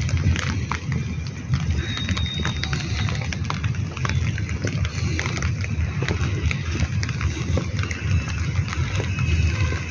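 Monsoon rain falling, drops pattering as many quick, irregular taps over a steady low rumble, with a brief high whistle about two seconds in.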